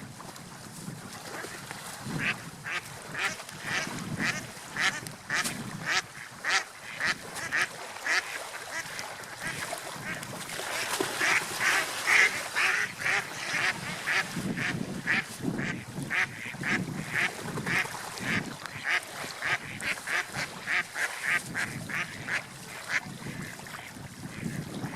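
Ducks quacking in a long run of short calls, about two to three a second, densest around the middle.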